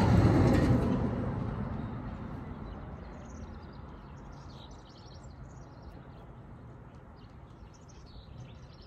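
Small birds chirping and twittering, many short high calls from about three seconds in. Under them a low rumble, loudest at the start, fades away over the first few seconds.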